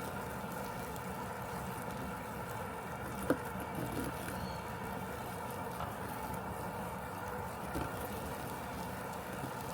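Robotic lawn mower running with a steady mechanical hum, with a brief sharp click about three seconds in.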